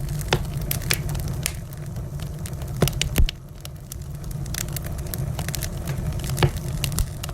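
Wood fire burning in a fireplace: a steady low rumble with irregular sharp crackles and pops, two louder pops about three seconds in and another loud one near the end.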